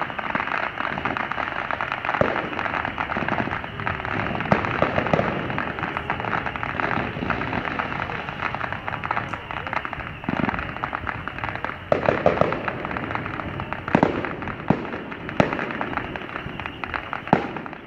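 Fireworks display: a continuous crackle with sharp bangs at irregular intervals, several coming in the last six seconds.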